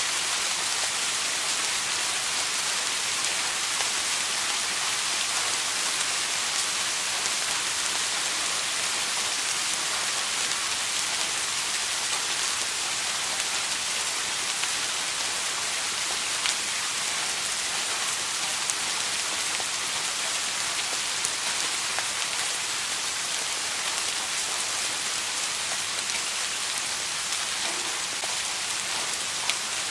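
Steady rain falling, an even hiss with occasional separate drop ticks.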